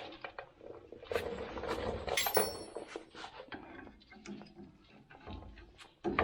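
Light metallic clinks, taps and knocks of tools and brake parts being handled, with one short metallic ring a little over two seconds in.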